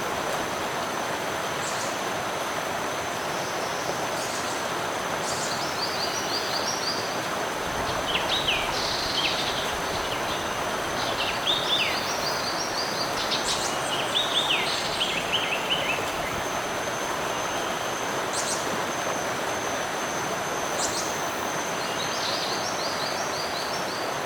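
Steady rush of flowing stream water under a thin, steady, high insect drone. Several times, runs of quick, short, falling bird chirps sound over it.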